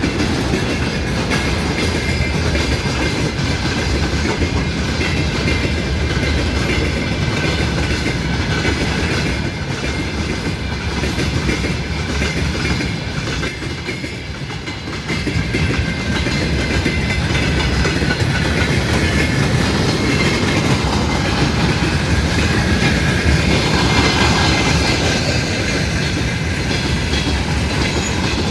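A train rolling past close by, a steady rumble with wheels clicking over rail joints and a faint whine from the running gear. The sound dips briefly about halfway through, then returns at full level.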